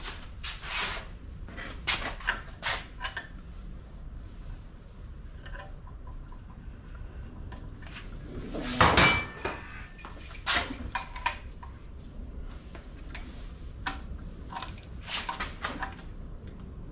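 Metal tools and engine parts clinking and clattering by hand during work on the camshafts. There are scattered light clicks, and one loud ringing metal clank about nine seconds in.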